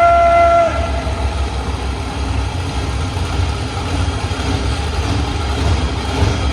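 Monster truck engines running after being started, a deep, loud, pulsing rumble. A long held pitched note cuts off under a second in.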